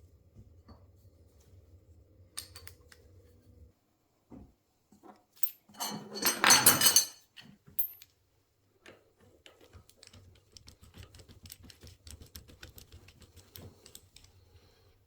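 Small metal tools and motorcycle fork parts being handled on a workbench: scattered clicks, one louder ringing metallic clatter about six seconds in, then a run of light rapid ticks, over a faint low hum.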